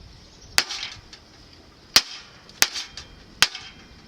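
Hammer striking wood: four sharp, separate blows, spaced unevenly about a second apart.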